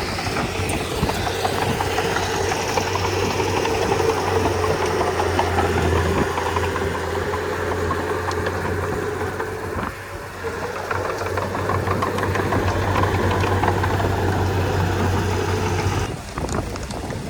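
Komatsu D31P crawler bulldozer's diesel engine running steadily while working, easing off briefly about ten seconds in, with an abrupt change in the sound near the end.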